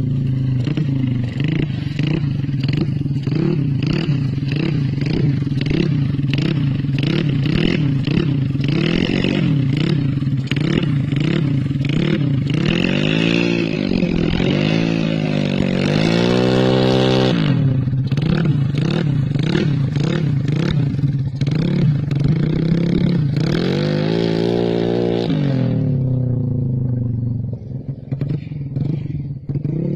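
Yamaha Mio scooter's single-cylinder four-stroke engine, fitted with a CLD C7 aftermarket exhaust, revved while standing. It idles with quick, rhythmic throttle blips, then is revved up and let fall back several times, the highest rev about halfway through and another a little after that.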